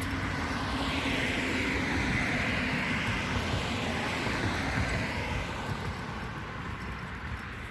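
A vehicle passing by: a steady rushing noise that swells about two to three seconds in and then slowly fades away.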